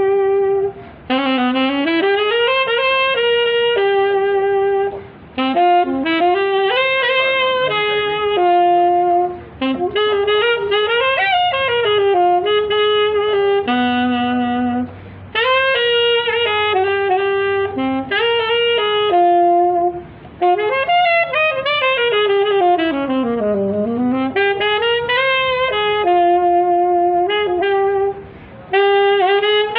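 Saxophone playing a slow, expressive melody with sliding pitch bends, in phrases broken by short breath pauses.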